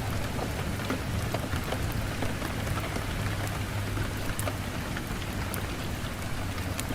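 Wood fire burning in a fireplace: a steady hiss over a low rumble, with scattered sharp crackles and pops from the burning logs.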